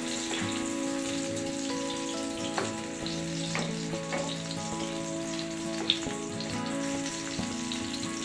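Food sizzling in a frying pan, a steady crackling hiss, with a few sharp clicks, the loudest about six seconds in, under background music with sustained notes.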